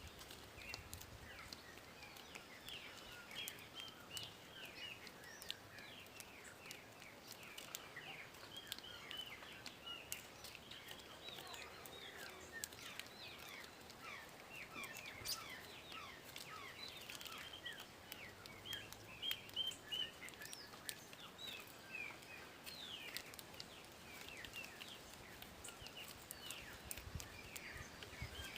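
Small birds chirping, many short high chirps coming one after another and sometimes overlapping.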